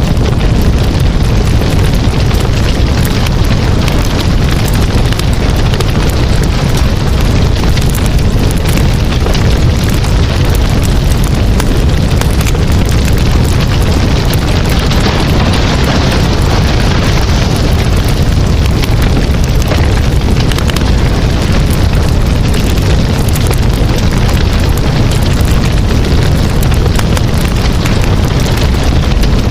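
Wood campfire burning: a steady deep rush of flames with many small, irregular crackles and pops.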